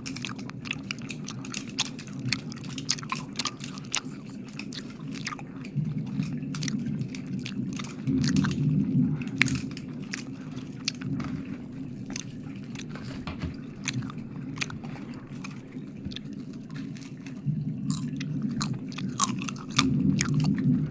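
Close-miked wet mouth sounds: a dense run of quick clicks and smacks, over a low rumble that swells several times.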